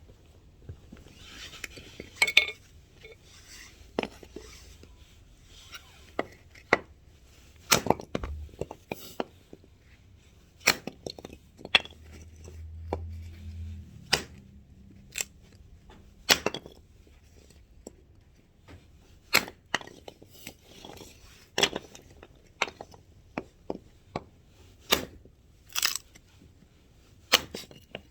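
Axe chopping firewood: a run of sharp cracks and knocks as the blade strikes and splits the wood, coming irregularly about every second or two.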